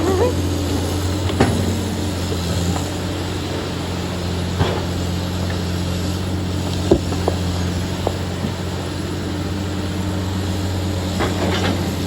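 A vehicle engine running steadily with a low, even hum, and a few short knocks scattered through it.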